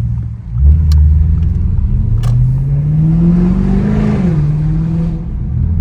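Straight-piped Audi S7 exhaust under acceleration: the note gets louder about half a second in and climbs steadily in pitch, then drops quickly a little after four seconds as the gearbox shifts up, and holds steady after that.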